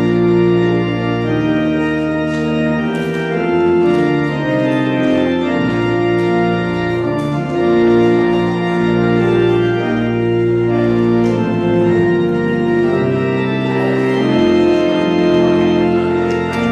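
Church organ playing full held chords, the notes changing about once a second.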